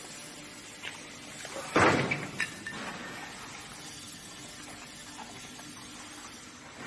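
A single sharp knock about two seconds in, with a few faint clicks, over a steady background hum.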